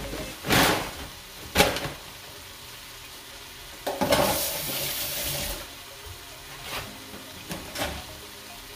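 Chicken pieces with ginger and lemongrass sizzling in a stainless steel stockpot as they saute toward light browning. Short louder flare-ups of sizzling come about half a second and a second and a half in, a longer loud one from about four to five and a half seconds, and a few smaller ones near the end.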